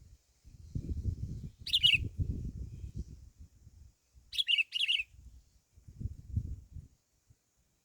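A songbird chirping in short, high calls: one call about two seconds in, then a quick run of three about halfway through. Low rumbling noise comes and goes underneath.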